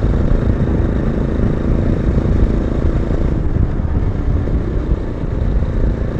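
Yezdi motorcycle engine running steadily under way, with a heavy low rumble of wind on the microphone.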